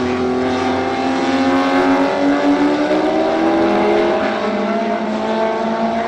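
Historic sports racing car engines at full throttle, their pitch climbing steadily, with a drop like a gear change a little after the middle and a fresh climb. More than one engine is heard at once.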